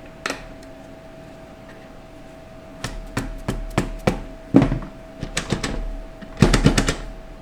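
Metal parts of a 4L60E automatic transmission clinking and knocking as the stuck 2-4 band is worked loose from the case, over a steady faint hum. The clatter starts about three seconds in and is loudest near the end.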